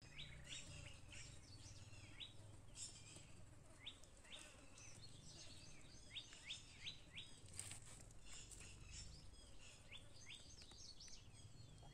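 Faint outdoor birdsong: many short, high chirps, some coming in quick runs of four or five, over a faint low steady background noise.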